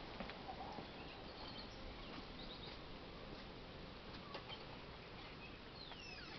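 Faint small-bird chirps and a few light clicks against a low steady background hiss, with a quick falling chirp near the end.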